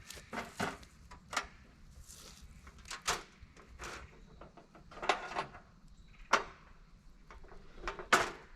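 Camp stove and cooking gear being handled and set up: a string of irregular knocks and clatters, about eight in all, the loudest near the end.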